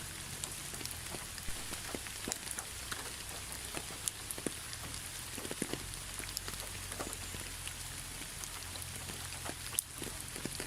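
Steady rain, an even hiss with many separate drops heard as sharp ticks. Near the end the sound dips for a moment and one louder tick stands out.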